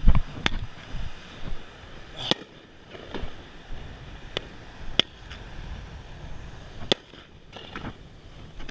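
Fireworks going off: a series of sharp, irregularly spaced bangs and cracks, the loudest right at the start and the rest spread through.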